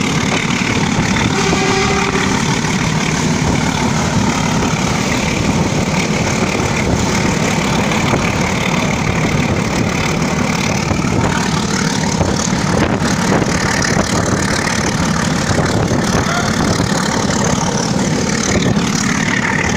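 A moving train heard from on its roof: a steady, loud rush of wind and running noise with no break.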